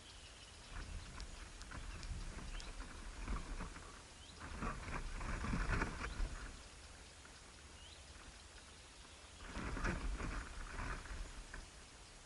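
Birds at the nest: scattered faint short chirps, and twice a couple of seconds of rustling and fluttering.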